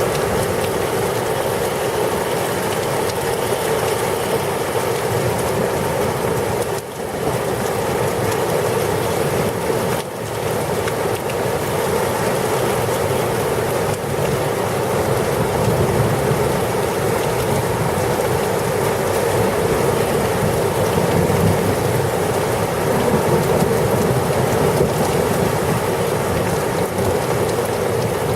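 Heavy rain pouring in a thunderstorm: a loud, steady hiss with no break.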